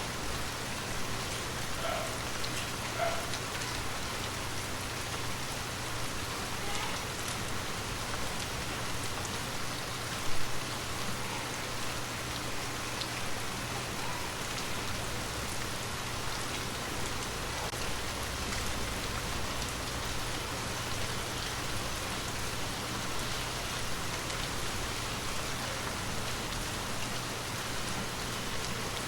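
Steady gentle rain, with individual drops striking a surface throughout and one louder tap about ten seconds in.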